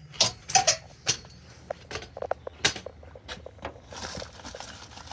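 A series of about ten light, irregular clicks and knocks over three seconds, handling sounds of hard objects, followed by a faint hiss.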